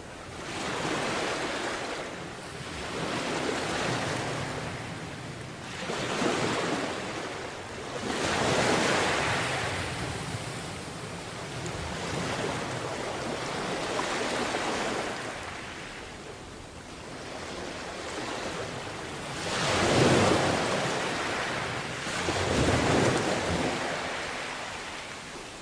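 Sea waves washing onto a beach, the surf swelling and fading every two to four seconds, with the loudest surges near the middle and about two-thirds of the way through. Wind buffets the microphone.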